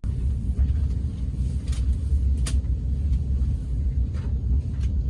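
Train running, a steady low rumble heard inside the passenger carriage, with a few faint clicks.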